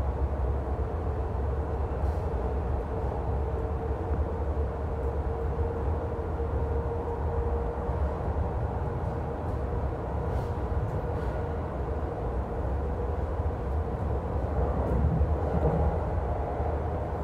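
Steady low rumble inside an NJ Transit Multilevel passenger coach running at speed, its wheels rolling on the rails, with a faint steady tone and a few light clicks. It swells slightly near the end.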